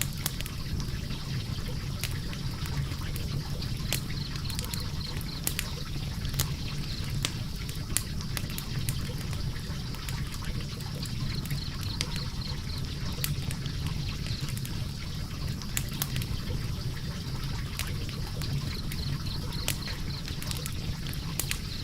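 Wood logs burning in a fireplace: a steady low rumble of flames with frequent irregular sharp crackles and pops.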